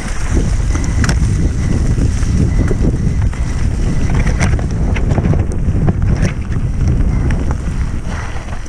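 Wind buffeting the microphone as a mountain bike rides fast over rough ground, with scattered rattles and knocks from the bike.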